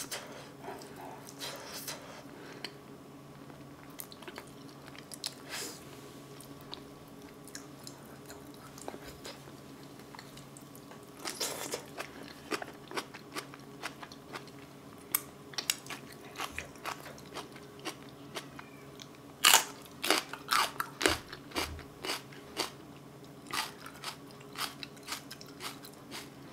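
Close-miked chewing of a mouthful of boiled potato: scattered wet mouth clicks and smacks, busiest about eleven seconds in and again about twenty seconds in.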